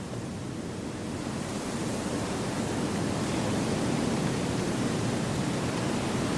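Wind blowing through a forest: a steady, even rushing that swells gradually over the first few seconds.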